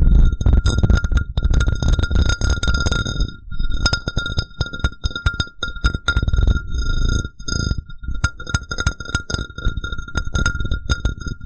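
A glass cup tapped and rubbed in quick clusters of clicks against a low rumble of handling noise. The glass rings at one steady pitch throughout, with a few short lulls in the tapping.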